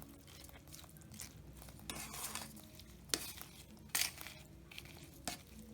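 Scattered clinks, scrapes and rustles of a spoon working against dishware, with one sharper clink about three seconds in.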